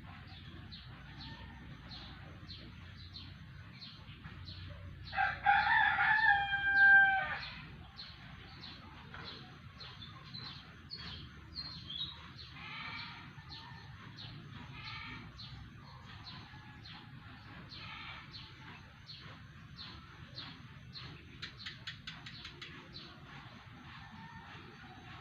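A bird's loud, drawn-out call of about two seconds, about five seconds in, over faint short chirps that repeat throughout.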